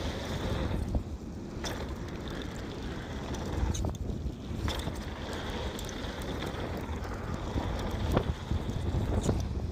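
Wind buffeting the microphone of a mountain bike rider's camera during a fast downhill run, over the rumble of knobby tyres on a dirt trail. Sharp knocks and rattles from the bike come through now and then as it hits rough ground, a few times across the stretch.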